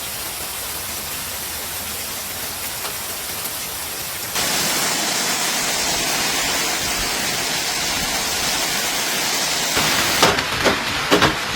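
Heavy storm downpour of rain and hail pounding on surfaces, a steady dense hiss. About four seconds in it becomes louder and hissier, and near the end a person's voice is heard over it.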